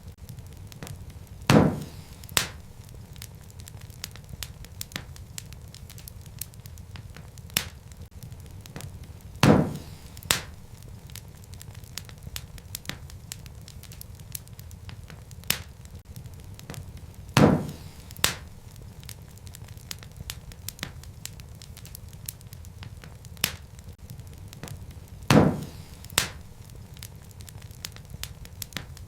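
Wood fire crackling: a steady low rush of flame with scattered small snaps, and a louder pair of sharp pops about every eight seconds.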